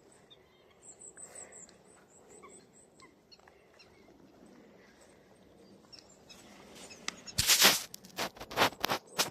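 Goldcrests calling: faint, very high, thin notes repeated quickly over the first few seconds. Near the end comes a short burst of loud rustling knocks close to the microphone, several in quick succession.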